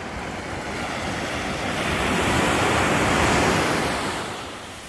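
A wave breaking and washing in on a beach. The surf noise swells to a peak a little past the middle, then fades away.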